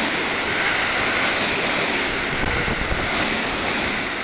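JR West 223 series electric train running through the station at speed beside the platform: a steady rush of wheels on rails and displaced air.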